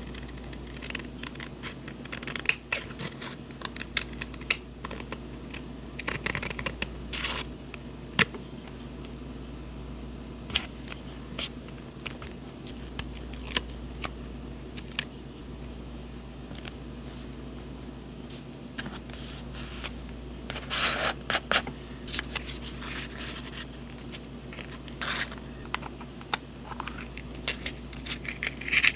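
Paper and stationery handled at close range: scattered light rustles, scrapes and clicks, with a busier stretch of paper noise about twenty-one seconds in.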